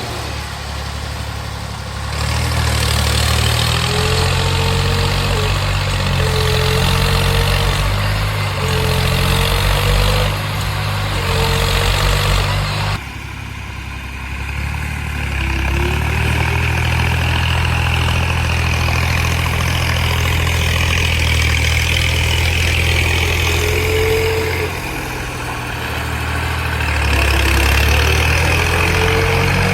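Tractor engine running a fodder-cutting silage machine: a steady low engine drone under a wide hiss, with a faint wavering whine. The sound drops and changes abruptly about 13 seconds in, then builds again.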